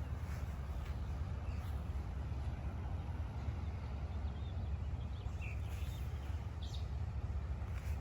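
A few short, high bird chirps a couple of seconds apart, over a steady low rumble.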